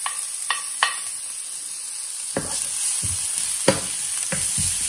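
Cumin seeds and grated ginger sizzling in warm olive oil as a wooden spatula stirs them around a frying pan: a few sharp taps of the spatula on the pan in the first second, then slower scraping strokes from about two and a half seconds in, over a steady frying hiss.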